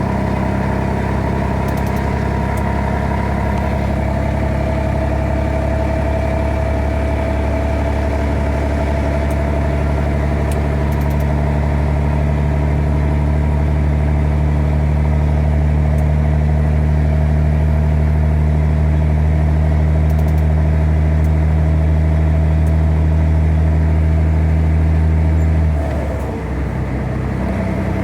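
Scania 113H truck's diesel engine running steadily, pulling a little harder through the middle. Near the end the sound drops off briefly and comes back at a different pitch.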